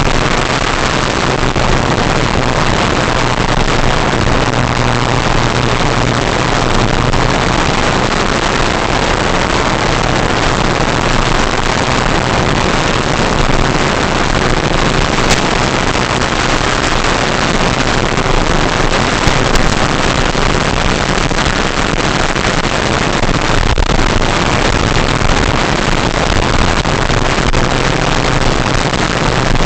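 RC model plane in flight as heard through its onboard camera: a steady rush of wind and propeller noise with a constant low motor hum.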